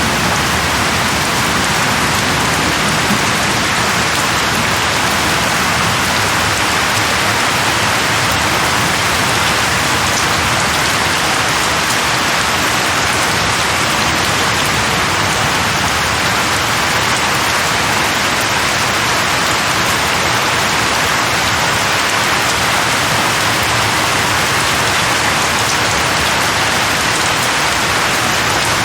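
Steady heavy rain falling, a dense, even hiss of drops with no breaks.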